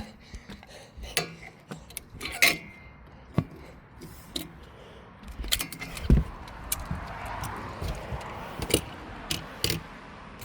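Irregular plastic clicks, knocks and clatter from toy monster trucks being handled and set on a toy track, with a heavier thump about six seconds in.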